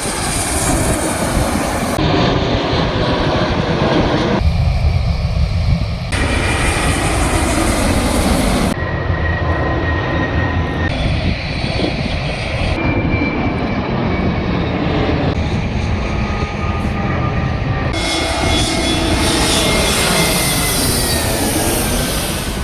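Jet aircraft engines, heard in a series of short clips cut together, each changing abruptly to the next. Over the loud engine noise runs a high turbine whine, which falls slowly in pitch near the end.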